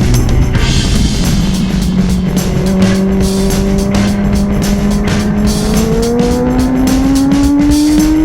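Kawasaki Ninja ZX-10R race bike's inline-four engine at speed, heard onboard, its pitch climbing slowly and steadily as the bike accelerates.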